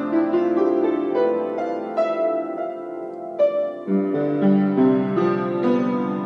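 Soft keyboard playing slow, sustained piano chords between sung lines of a worship song, with the chord changing every second or so.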